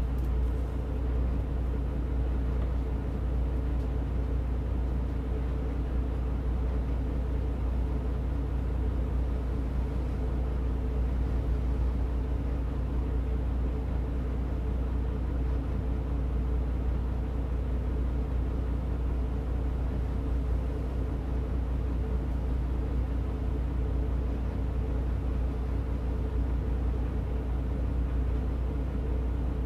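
Route bus heard from inside the cabin while under way: steady engine drone and low road rumble with an even hum, no gear changes or braking.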